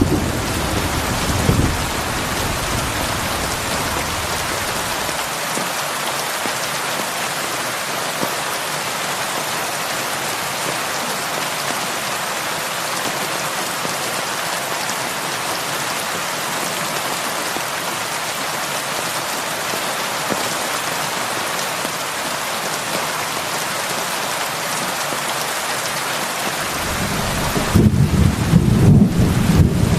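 Heavy rain falling steadily, with thunder rumbling at the start and rolling in again near the end.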